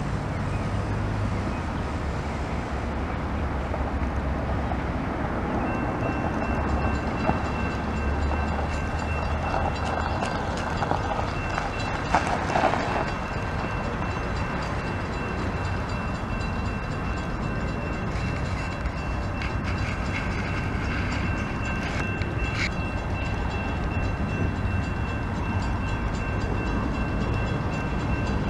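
A train passing close by: a steady rumble of rolling stock, with a diesel locomotive's engine heard in the first few seconds. A thin, high, steady whine joins about six seconds in and holds, and a few sharp clicks sound along the way.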